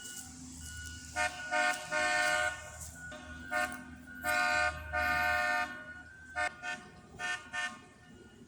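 A horn sounding a series of blasts, several notes at once: a few short toots, three longer blasts, then quick short toots near the end. Under them, a faint beeping tone repeats on its own.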